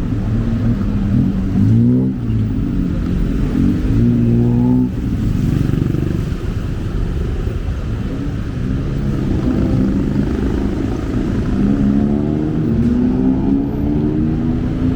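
Busy road traffic: vehicle engines running close by and speeding up, their pitch rising about two seconds in, again around five seconds, and in a slower, longer rise over the last few seconds.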